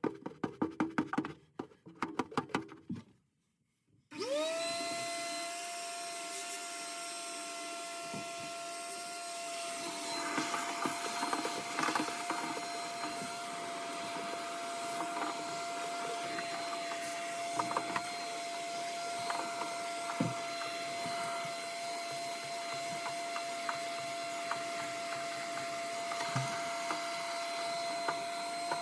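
Rapid clicking, then a moment of silence, then an electric motor starts about four seconds in, its whine rising quickly to a steady pitch and running on with scraping and knocking over it.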